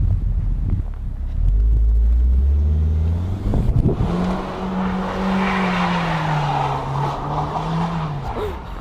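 A Mitsubishi Lancer Ralliart's turbocharged four-cylinder engine is revved hard while the car drifts on snow. Its note climbs about three seconds in, holds high, and drops near the end, with a rushing hiss through the middle.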